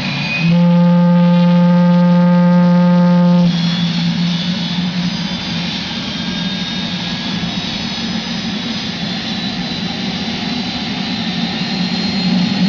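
Rolls-Royce Allison gas turbine of the MTT Y2K Turbine Superbike running, a loud jet-like rush with a faint high whine. From about half a second in to about three and a half seconds, a loud steady droning tone sounds over it, then cuts off.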